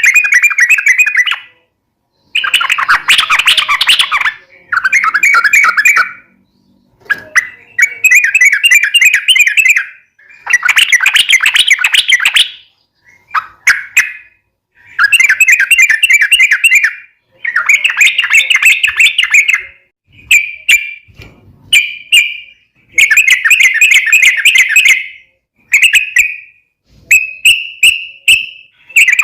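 Yellow-vented bulbul (trucukan) singing loud, rapid, chattering song phrases one after another, each lasting one to two and a half seconds with short pauses between. The phrases get shorter in the last few seconds.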